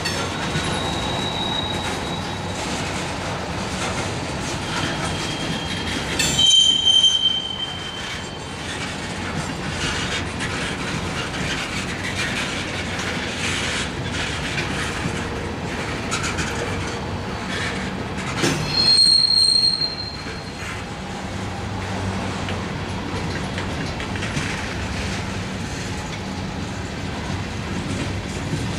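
Freight cars, boxcars and covered hoppers, rolling past on the rails with a steady rumble and rattle of wheels. Twice, about six and about nineteen seconds in, a loud high-pitched wheel squeal rings out for a second or two.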